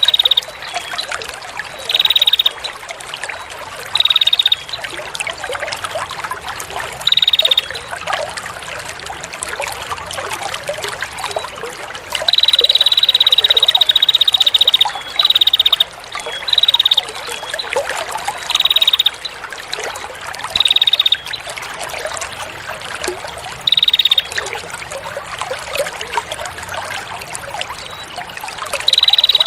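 A songbird from a tutor-song recording gives short, rapid trilled calls, each about half a second long, every couple of seconds, with one long trill of about three seconds near the middle. Water trickles steadily underneath.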